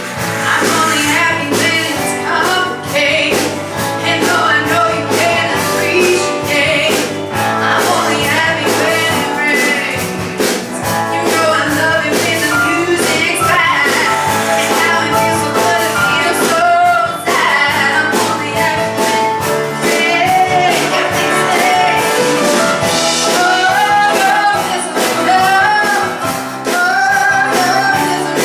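Live rock band playing a song with singing over it, driven by a steady drum beat.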